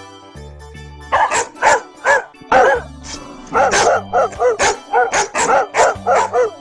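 A dog barking in a quick run of many short barks, starting about a second in, over light keyboard music.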